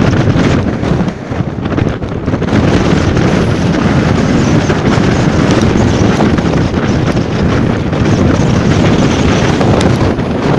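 Strong wind buffeting the microphone: loud, continuous rumbling noise with a short lull about a second in.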